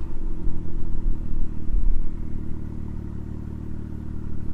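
BMW M2 (F87) turbocharged straight-six idling through its exhaust just after a rev, running steadily; a little louder for the first two seconds or so, then quieter.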